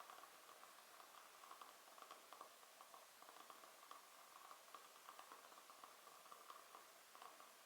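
Faint wood fire in a fireplace crackling, with many small irregular pops and ticks.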